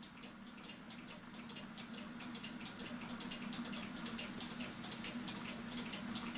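Small, rapid clicking from a mechanical cuckoo clock movement as its hands are turned forward toward the hour.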